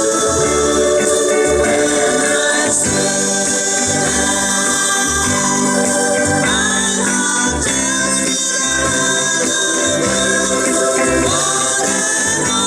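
Live band of buskers singing a Hawaiian-style song in several-part harmony over instrumental accompaniment with a bass line.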